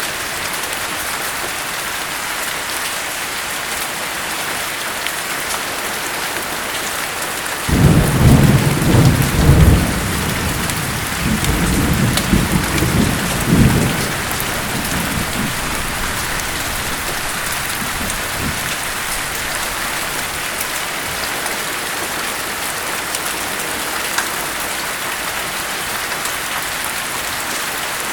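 Steady heavy rain with a long roll of thunder. The thunder cracks in suddenly about eight seconds in, rumbles in waves for several seconds and fades away, while the rain hisses on evenly.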